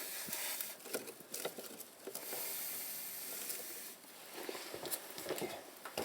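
Small kindling-and-paper fire in a fireplace crackling with scattered pops and a soft hiss for a couple of seconds in the middle; the fire is slow to catch in the cold firebox.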